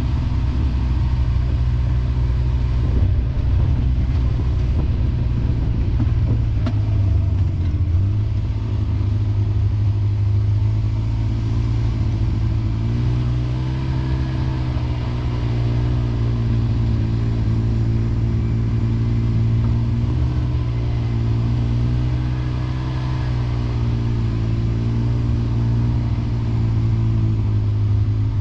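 A vehicle's engine running steadily while riding, with the engine note wavering slightly up and down in the second half and a steady rushing noise of travel underneath.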